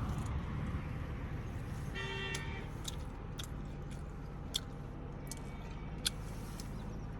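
A vehicle horn gives one short toot about two seconds in over a steady low rumble. A few sharp clicks follow.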